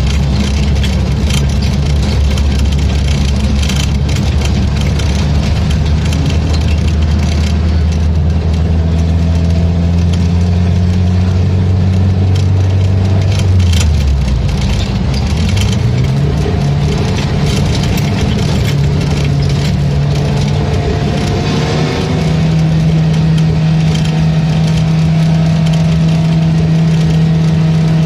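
Race car engine running hard under racing load, holding a steady pitch, then dropping sharply about halfway through before climbing back up and settling at a higher steady pitch near the end.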